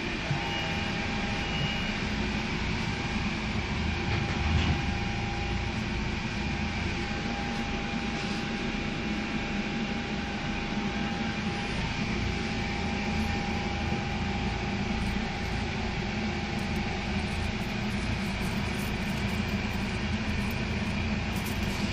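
Siemens RegioSprinter diesel railcar running along the line: a steady rumble of engine and wheels, with a thin steady whine that stops about three-quarters of the way through.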